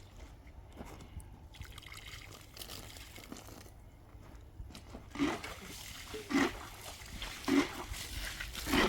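Water splashing and sloshing: a faint stretch, then a run of short splashes about a second apart in the second half.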